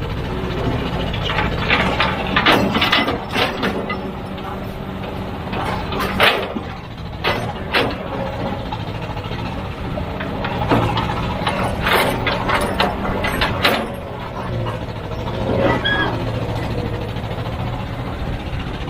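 Heavy diesel machinery running steadily under a low engine drone, with bursts of clanks and scrapes several times.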